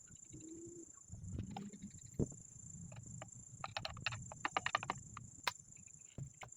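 Irregular light clicks and knocks of hand tools and metal parts being handled, with one louder knock about two seconds in and a quick cluster of clicks in the middle, over a faint steady high whine.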